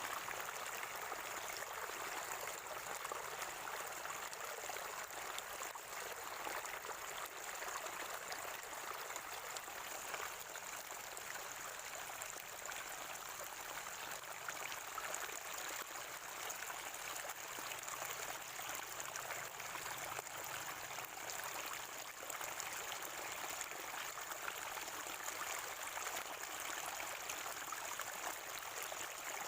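Water of a natural spring gurgling and trickling, steady and unbroken.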